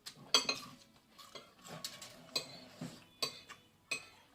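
Cutlery clinking and scraping against plates and takeaway dishes during a meal, a series of sharp clinks with the loudest about a third of a second in.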